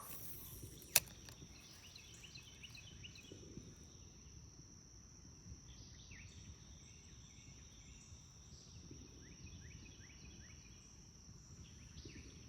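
Steady high-pitched insect drone, with clusters of short falling bird chirps over it and one sharp click about a second in.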